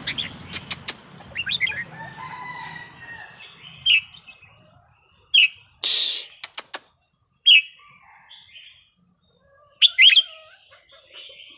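Red-whiskered bulbul singing short, bright whistled phrases with pauses between them. Sharp clicks and a brief rustling burst about six seconds in are heard among the phrases.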